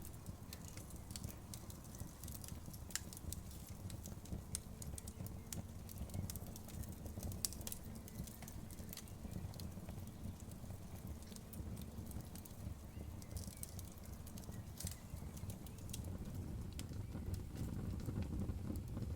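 Wood campfire crackling: irregular small pops and snaps, one sharper crack about seven and a half seconds in, over a steady low rumble.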